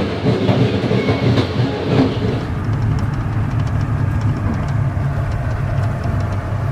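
Passenger train running at speed, heard from inside a carriage: a steady rumble of wheels on the rails. About two and a half seconds in the hiss above it drops away, leaving a duller low rumble.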